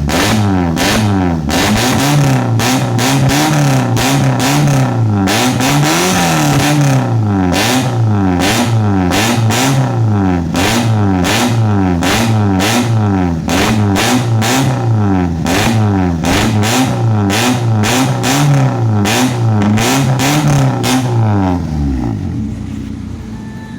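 Honda Ferio engine blipped again and again through a racing exhaust with an aftermarket header, resonator and HKS muffler, its pitch rising and falling about once a second. Near the end the revving stops and the engine drops back to idle.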